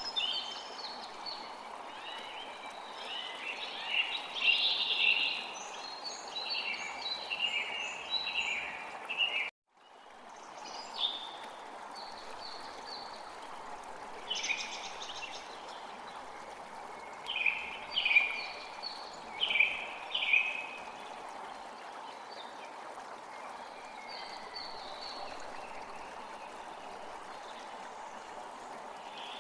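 Songbirds chirping and trilling in clusters over the steady rush of a flowing stream. The sound cuts out for a moment about ten seconds in and fades back in.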